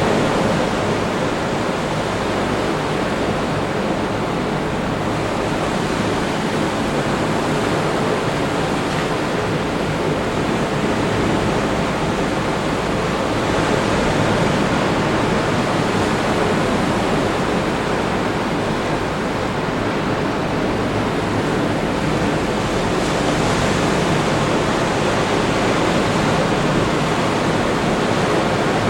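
Ocean surf breaking on the beach below: a steady wash of noise that swells and eases slowly.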